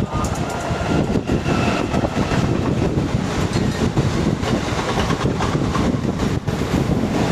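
Mumbai suburban electric local train running, heard from its open doorway: a steady rumble of the wheels on the rails, with clicks as the wheels cross rail joints.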